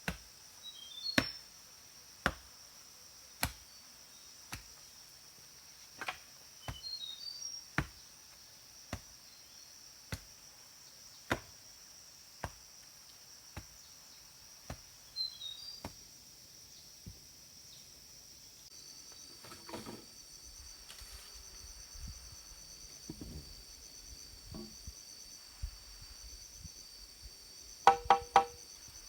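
Sharp knocks at a steady pace of about one a second, then scattered, quieter handling noises, and near the end a quick burst of three louder knocks with a ringing tone. Insects chirr steadily underneath, and a bird gives short falling chirps a few times.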